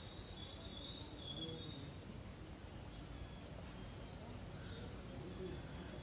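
Outdoor ambience: small birds chirping in short high calls, in a cluster about a second in and again past the middle, over a steady low background rumble.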